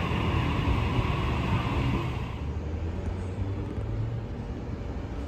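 A train running through the station with a steady low rumble. Its higher, brighter part dies away about two seconds in, leaving a quieter low rumble.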